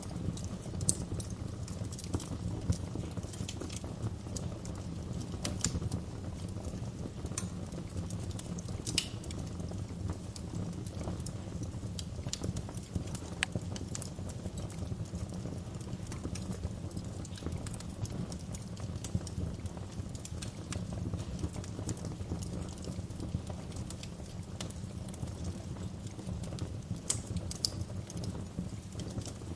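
Wood fire in a fireplace crackling: irregular sharp snaps and pops, a few of them louder, over a steady low rumble of the burning.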